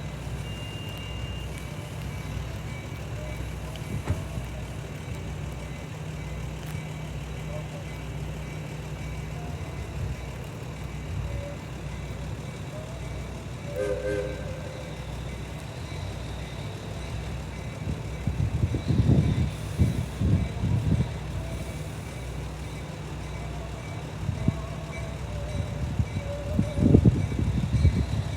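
Steady low rumble of a passenger coach rolling along on an excursion train, with faint passenger voices in the background. Louder bursts of low rumble come twice in the second half.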